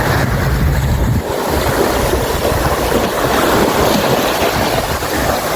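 Surf washing on a beach, with wind buffeting the microphone in a low rumble that is heaviest in the first second or so.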